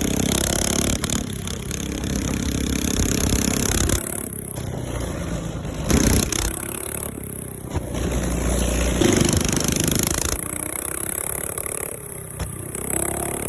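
Small single-cylinder mini bike engine revving up and falling back, with sharp backfire bangs from the exhaust, the loudest about six seconds in.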